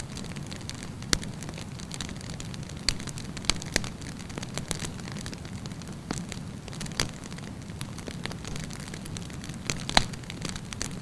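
Wood campfire burning: a steady low rumble of flames with scattered sharp pops and crackles, the loudest about a second in, a cluster around three to four seconds, and one near the end.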